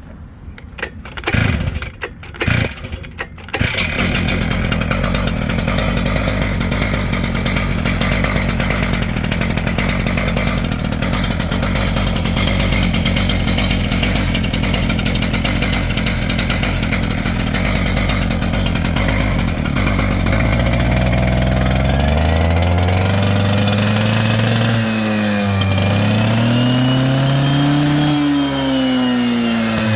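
Stihl TS700 concrete saw's two-stroke engine catching after a few short bursts, then running steadily at low speed. In the last third it is revved up and down over and over.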